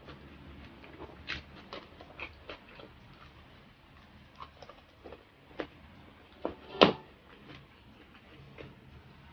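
Close-up mouth sounds of eating crispy deep-fried pork knuckle: irregular crunches of the crackling skin, wet chewing and lip smacks. One crunch about two thirds of the way through is the loudest.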